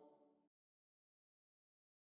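Silence: the audio fades out in the first moment and the track is then completely silent.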